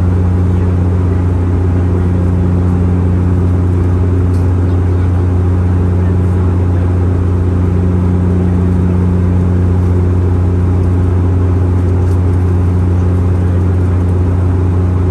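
Cabin drone of a Bombardier Q400 (Dash 8-400) in flight, heard near the wing: its Pratt & Whitney PW150A turboprops' six-bladed propellers give a loud, steady deep hum with a second, higher tone above it, over a constant rush of engine and air noise.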